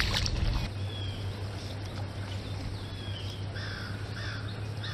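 Wild birds calling in short chirps now and then, over a steady low rumble of outdoor background noise, with a brief louder low rush at the start.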